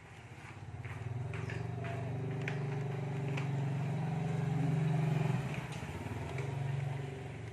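A motorbike engine running, growing louder until about five seconds in, then easing off, with a brief smaller swell near the end.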